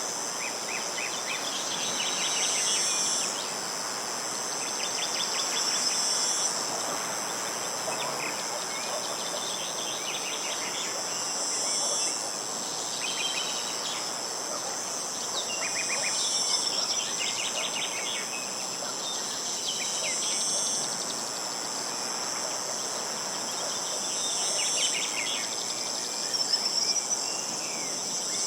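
Steady high-pitched insect chorus, with a bird singing short trilled phrases again and again every two to three seconds, over a soft hiss of wind.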